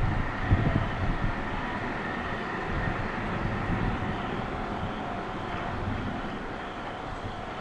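Train running through the station without stopping: a steady rumble with a few heavy thumps in the first second, slowly fading.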